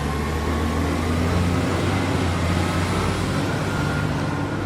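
A heavy vehicle's engine running steadily with a low hum, an added engine sound effect.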